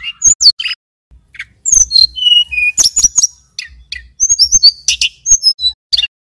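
Male Tledekan Gunung (sulingan gunung) singing: quick runs of high-pitched chirps and short whistled notes in phrases, with a brief pause about a second in.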